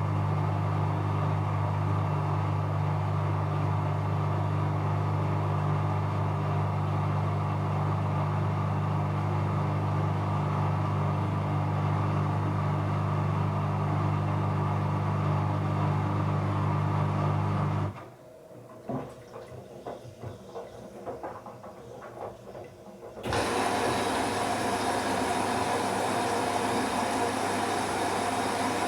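Bauknecht Super Eco 7615 washing machine early in its cycle: a steady low hum that cuts off about two-thirds of the way through. A few seconds of quieter, irregular sounds follow, then a steadier, brighter whooshing sound starts abruptly.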